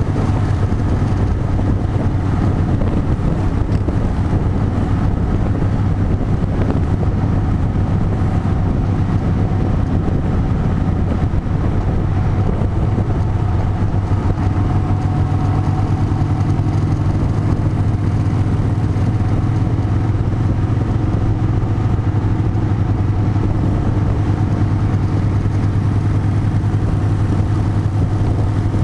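A large engine running steadily at constant speed, a deep, even hum with no revving.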